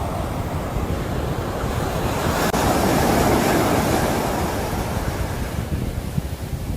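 Sea waves breaking and washing on the shore; one wave swells to its loudest about three seconds in, then recedes.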